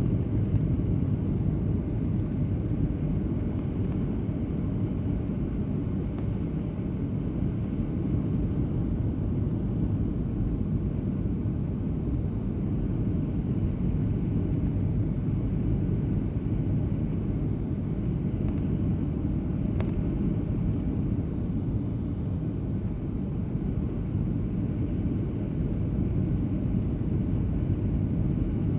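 Airliner cabin noise in flight: a steady low rumble of engines and airflow heard from a passenger seat.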